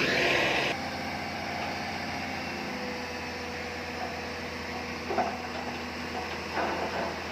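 Diesel engine of heavy earthmoving machinery running steadily. A louder, harsher stretch cuts off abruptly under a second in, leaving a lower, even hum. A few light clanks come later.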